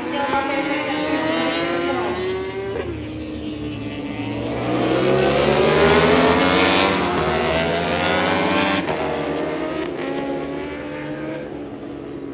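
Superbikes racing past at high revs. The engine notes climb and then drop sharply at gear changes, about two seconds in and again near nine seconds, and they are loudest about five to seven seconds in as the bikes pass.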